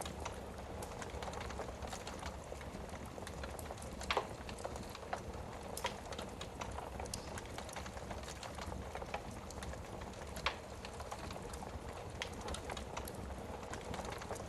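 Wood fire burning in a fireplace, crackling steadily with scattered sharp pops, the loudest about 4 seconds in and near 10.5 seconds.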